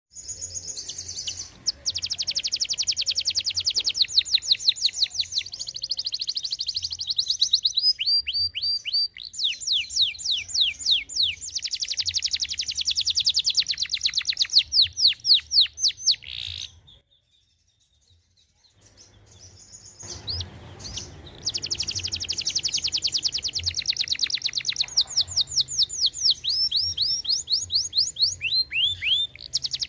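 Canary singing: long, fast trills of rapidly repeated high notes, each sweeping downward, changing from one trill type to the next. The song breaks off for about three seconds of near silence midway, then starts again.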